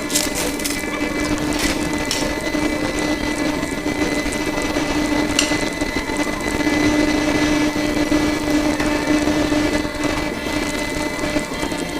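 A small machine running steadily, with a constant hum over a hiss and a few sharp clicks in the first couple of seconds.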